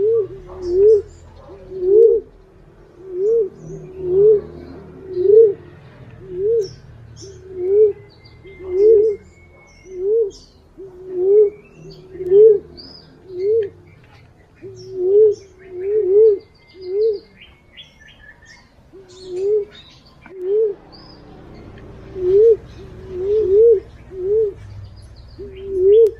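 Wild fruit pigeon (punai or walik) calling: a long run of short, low hooting coos, each rising and falling in pitch, at about one a second with some in quick pairs and a brief pause past the middle. Faint higher chirps of small birds sound behind them.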